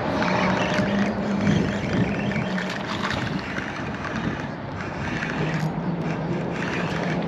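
Electric trolling motor on a fishing kayak humming steadily, fading out a bit past two seconds in and coming back on near the end, as a Spot Lock motor does while holding position. Under it is a steady hiss of wind and water.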